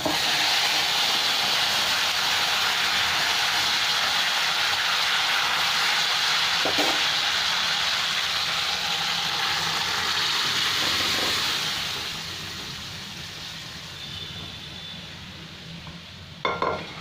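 Boiled moong dal and bottle gourd hitting hot tempering oil in a kadai, sizzling in a loud hiss that starts suddenly, holds for about twelve seconds, then dies down. A few light knocks of the ladle against the pan.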